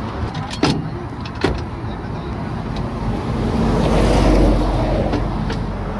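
Vehicle engine revving up and easing back down, with two sharp knocks about half a second and a second and a half in.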